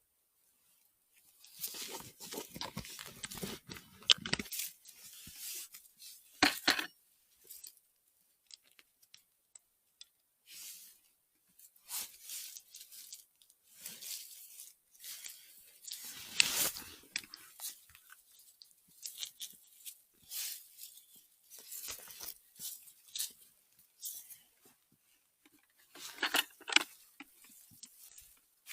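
Irregular rustling and crunching of forest-floor litter and undergrowth, with sharp snaps now and then, from someone moving through the woods and rummaging in the vegetation.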